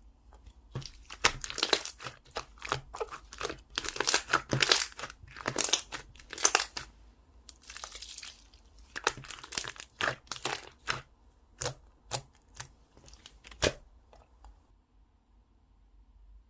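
Slime being worked by hand, crackling and popping in quick irregular clusters; it stops about fourteen seconds in.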